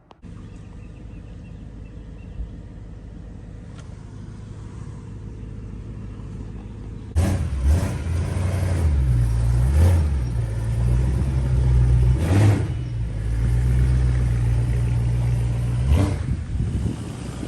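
BMW E92 M3's V8 running through a catless X-pipe and Borla ATAK cat-back exhaust: a low steady rumble that grows slowly, then gets suddenly much louder about seven seconds in and stays loud, its pitch stepping up and down.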